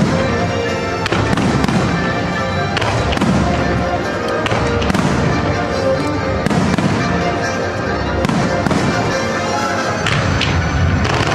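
Fireworks display: aerial shells bursting in quick succession with frequent sharp bangs and crackle, over a musical soundtrack.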